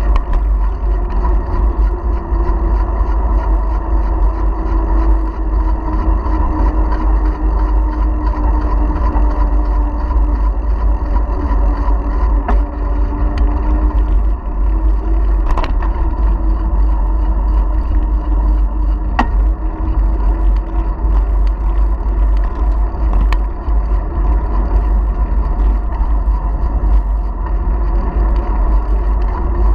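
Wind rumbling steadily on a bike-mounted GoPro's microphone while cycling, with a steady hum of riding noise and a few sharp clicks from the bike over the ride.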